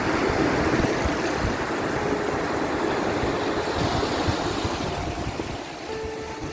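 Sea waves and wind: a steady rushing wash of surf, with a few faint held tones drifting over it.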